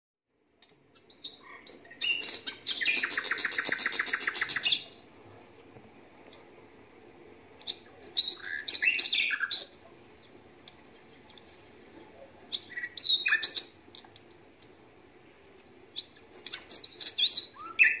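Songbird song: a few opening calls, then a fast trill lasting about two and a half seconds, followed by three short bursts of chirping phrases a few seconds apart.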